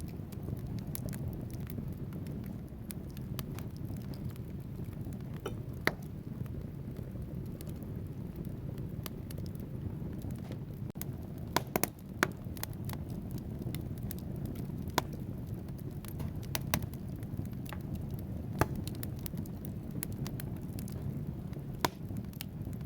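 Wood fire burning in a fireplace: a steady low rush of flames with frequent sharp crackles from the logs, and a handful of louder pops, several of them close together about halfway.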